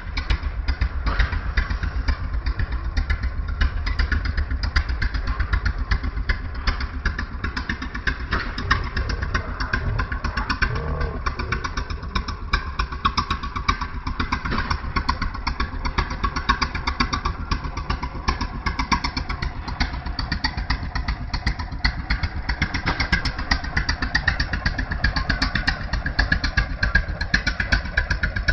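Antique tractor engine running steadily, with a fast, even firing beat.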